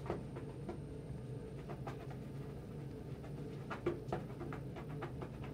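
Scattered light clicks and scratches from pet birds' beaks and feet close to the microphone, over a steady low hum.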